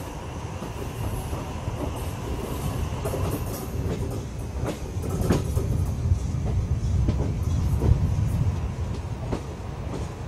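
A train running along the track, heard from on board: a steady low rumble with a few sharp clicks from the wheels on the rails, the strongest about five seconds in.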